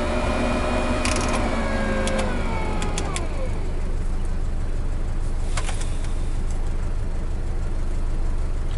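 GAZelle heater blower motor whirring, its commutator freshly cleaned and its bearings lubricated. About three seconds in it winds down with a falling whine. Under it runs a steady low rumble from the idling engine, with a few sharp clicks.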